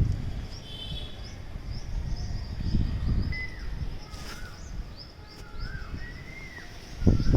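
Garden birds calling: a short high chirp repeats a few times a second throughout. From about three seconds in, shorter arched whistled notes join it. A low rumbling noise on the microphone swells and fades, strongest near the end.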